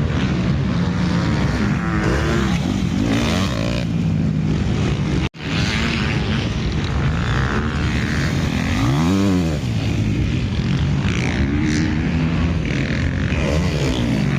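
Several motocross bikes revving hard on the track, their engine pitch rising and falling as they accelerate, shift and pass. One engine rises and falls clearly about nine seconds in. The sound cuts out for an instant about five seconds in.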